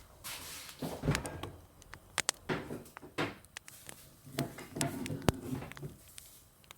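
Kitchen handling sounds: a series of sharp clicks and knocks, the loudest a little after two seconds in and about five seconds in, with rustling between them.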